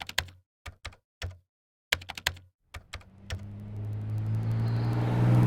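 Irregular clicks of typing on a computer keyboard for about three seconds, then a motor vehicle's engine approaching and growing steadily louder.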